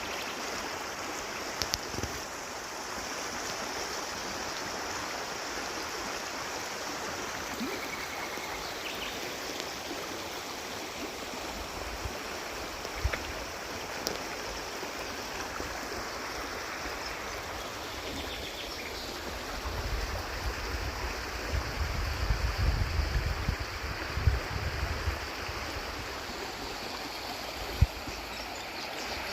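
Stream water flowing steadily, with a few small splashes or clicks, and a low rumbling for several seconds past the middle.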